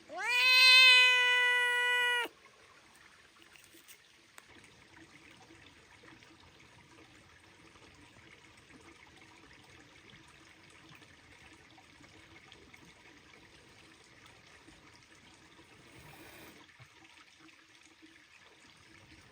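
A cat's long meow in the first two seconds, rising then holding one pitch before stopping sharply. After it, only a faint steady trickle of water.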